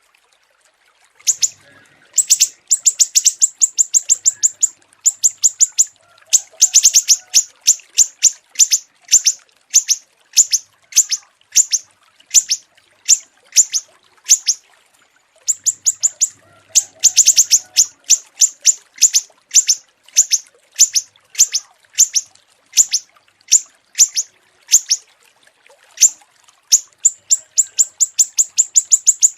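Small songbird singing: rapid trains of short, sharp, high-pitched chirps, repeated in bursts roughly once a second, with a brief pause about halfway through.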